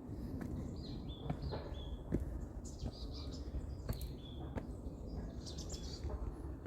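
Wild birds chirping, a string of short high calls with a quicker trill near the end, over a steady low outdoor rumble and a few faint taps.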